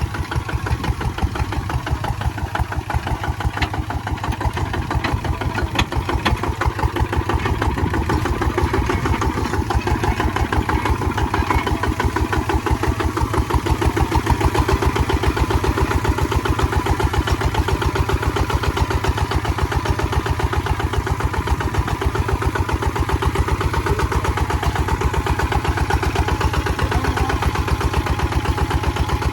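Kubota ZT155 single-cylinder diesel engine running steadily with an even, rapid chug, a little louder in the middle.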